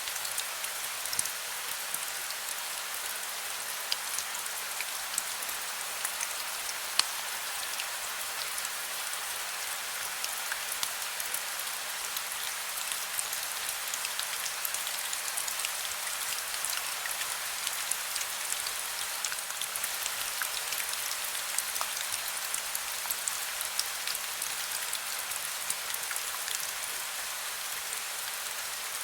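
Heavy rain falling steadily, a dense hiss with many individual drops ticking sharply on a hard surface.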